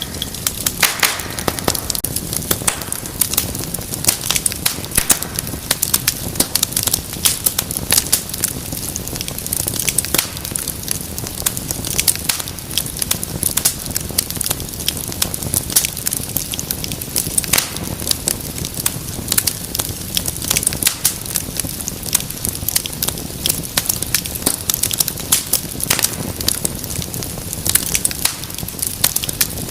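Wood fire crackling and popping continuously, with frequent irregular sharp snaps over a low steady rush of the flames.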